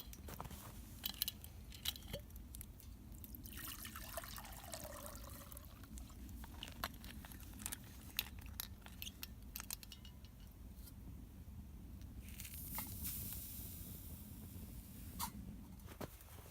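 Camping kit being handled while a small homemade twig stove is set up for a brew: scattered clicks and clinks, crunching, liquid sounds and a short hiss about twelve seconds in.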